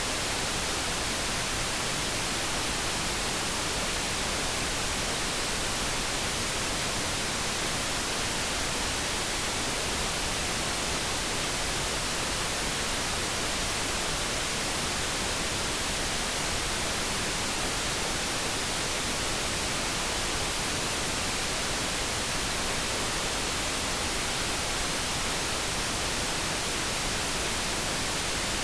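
Steady synthetic focus noise: an even, unbroken hiss with no tones or changes. No kettle hum can be picked out.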